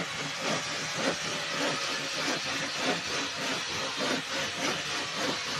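Rhythmic rasping strokes of a hand tool working metal or wood, about two strokes a second over a steady hiss.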